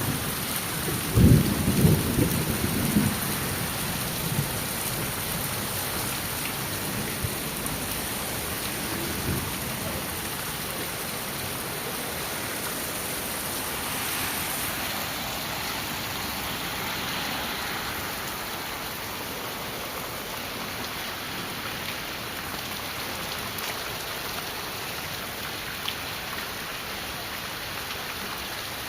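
Heavy rain falling steadily. About a second in, a low rumble of thunder stands out loudest.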